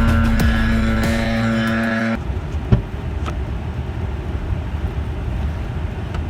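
Background electronic music with a steady beat that cuts off suddenly about two seconds in. It gives way to the steady low rumble of a motor vehicle on the road.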